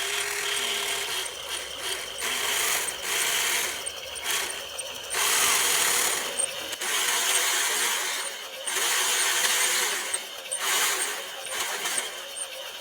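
A small geared mechanism, such as an electric motor driving plastic gears, grinding in repeated bursts of one to two seconds with short pauses between.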